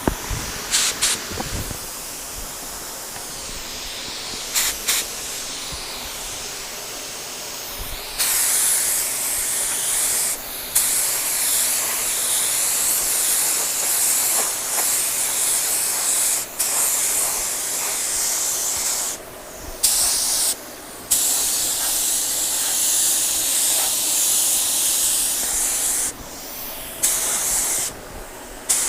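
Compressed-air paint spray gun spraying clear coat, a steady hiss. It is softer for the first eight seconds, then louder, and cuts out briefly several times as the trigger is let off between passes.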